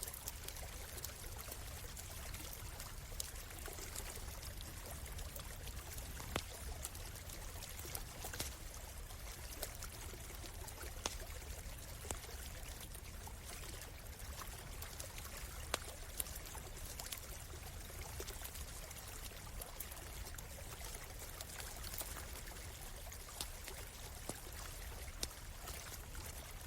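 A small stream running steadily, with a campfire crackling over it in scattered sharp pops.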